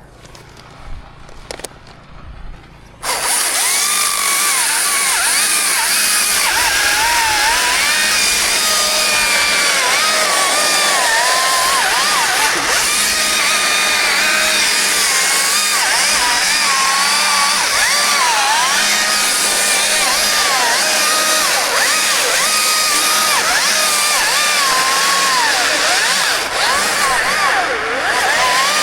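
Chainsaw goes to full throttle suddenly about three seconds in and runs on, cutting, its pitch dipping and recovering over and over as it works through the wood.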